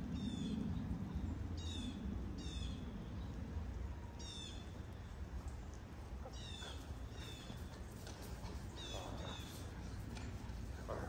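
A bird calling repeatedly outdoors: about eight short, high calls, each sliding downward in pitch, several coming in pairs. A low steady rumble lies underneath.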